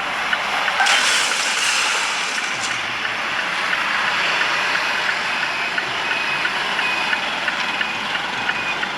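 Vehicle and road noise, a steady rushing haze that swells briefly about a second in.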